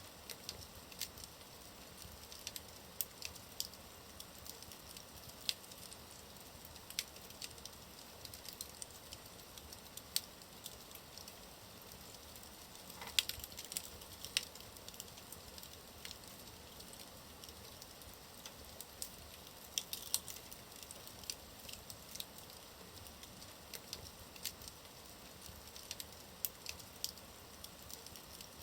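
Wood fire burning in a fireplace, crackling with frequent sharp pops over a low hiss. A few louder pops come about halfway through.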